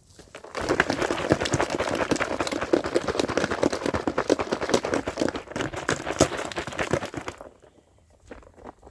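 A container of homemade lime lemonade with ice being shaken hard, ice and liquid rattling in a fast, steady clatter that stops about seven seconds in.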